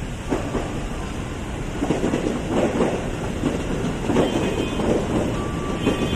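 JR 205 series electric commuter train running past, its wheels clattering over the rail joints in repeated clacks over a steady rumble, getting louder about two seconds in.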